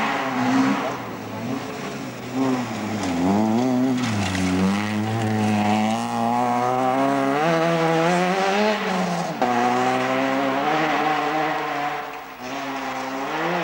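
Rally car engine revving hard as it passes on the stage, its pitch rising and falling with the throttle. There is a long climb that cuts off with a sudden drop about nine seconds in.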